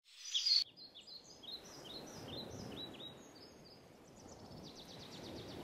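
A songbird singing: a loud call at the very start, then a run of short falling chirps about three a second, and a fast trill near the end, over a low steady background rumble.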